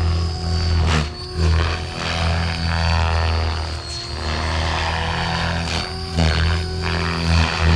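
Oxy5 electric RC helicopter in flight: a low rotor hum under a thin, steady high motor whine. The loudness swells and dips as it manoeuvres.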